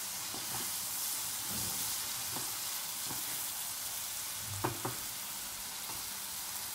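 Tomato-puree masala gravy sizzling in hot oil in a nonstick pan at medium flame, stirred and scraped with a silicone spatula. About two-thirds of the way through, the spatula knocks twice on the pan in quick succession.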